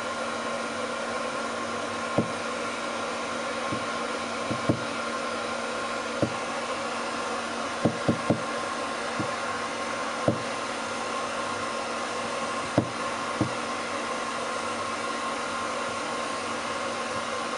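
Hand-held hair dryer blowing steadily, a rushing airflow with a steady motor whine, drying a long-haired cat's wet fur. A few short sharp clicks sound now and then, a cluster of three about eight seconds in.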